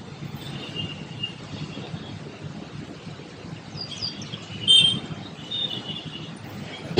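Birds chirping intermittently, with one louder chirp near the end, over a steady low background rumble.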